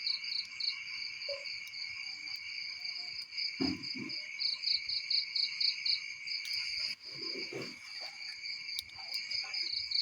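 A chorus of insects chirping steadily, one voice pulsing in rapid high chirps over a continuous lower trill. A few soft low thuds come about 4 s in and again around 7 to 8 s.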